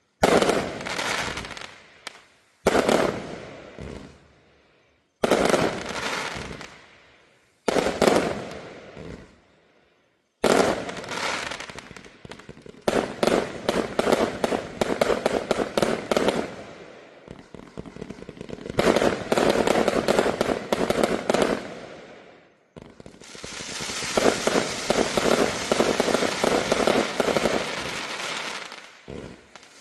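A 600-shot, 0.8-inch fan cake of consumer fireworks firing. It opens with four short volleys of rapid shots about every two and a half seconds, each fading away. Then comes a long unbroken run of rapid shots lasting about twelve seconds, and finally a dense barrage of about six seconds that stops abruptly.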